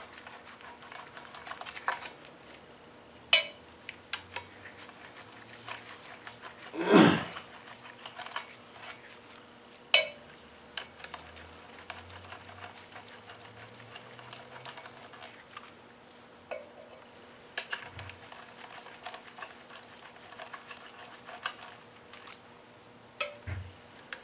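Scattered metallic clinks and clanks of hand tools and bolts being handled during engine teardown work, with one louder clunk about seven seconds in.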